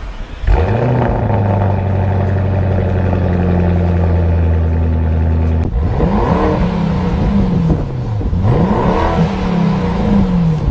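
Lamborghini Urus's twin-turbo V8 through a Fi EXHAUST valvetronic cat-back exhaust: it flares up about half a second in and holds a steady raised idle for about five seconds. Then it is revved twice, each rev rising and falling.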